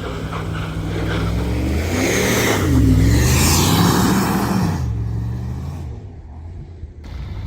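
A motor vehicle engine revving up and down under load, with a hiss over it, loudest about three seconds in; it eases off and falls quieter about five seconds in.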